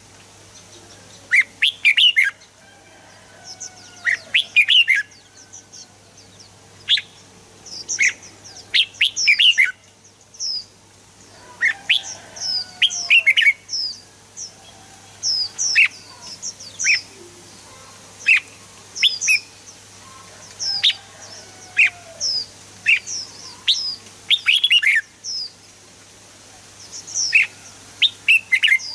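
Red-whiskered bulbul singing: short, bright chirping phrases in quick clusters, repeated every second or so, over a faint steady hum.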